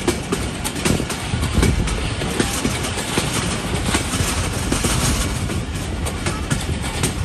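Passenger train running along the track: a steady rumble of wheels on the rails with frequent irregular clicks and knocks.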